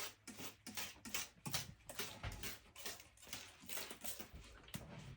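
Trigger spray bottle of bleach-water solution squeezed over and over, a quick run of short spray hisses at about four a second, wetting a mold-stained wooden subfloor.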